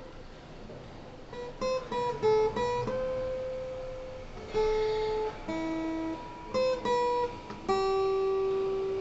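Acoustic guitar played slowly as single plucked notes in a melody, starting about a second and a half in with a quick run of notes, then longer notes left to ring.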